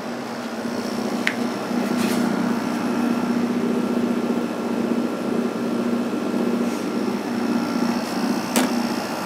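Emerson Quiet Kool 6,300 BTU window air conditioner running: a steady hum that wavers with a vibration, which the owner puts down to the fan motor shaft moving in and out on a worn thrust washer. A few sharp clicks stand out above it.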